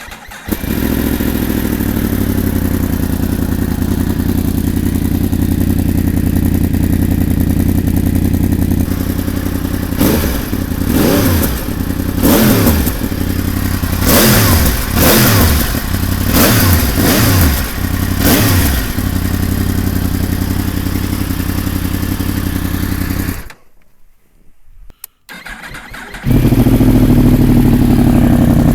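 Motorcycle engine idling through a baffle-less aftermarket semi-full exhaust, with about six sharp throttle blips from roughly ten seconds in. It falls nearly silent around twenty-three seconds in, then comes back louder and steady about three seconds later.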